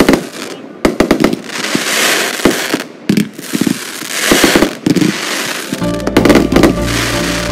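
Fireworks going off: a quick run of sharp bangs and crackling reports, with a crackling hiss between them. About six seconds in, background music with sustained low notes comes in under the bangs.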